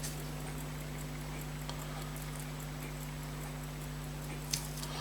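Room tone: a steady low hum with faint, regular ticking and one small sharp click about four and a half seconds in.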